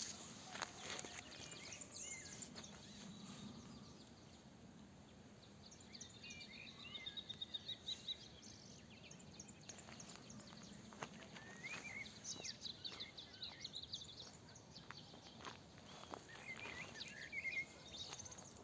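Small birds chirping and singing in short phrases, with a quick run of repeated notes about a third of the way in, over faint outdoor background noise.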